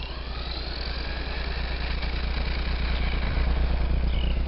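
Hobby People Sandstorm 2WD RC buggy running down the street, its motor and drivetrain giving a whine that falls in pitch at first and then holds steady, over a steady low rumble.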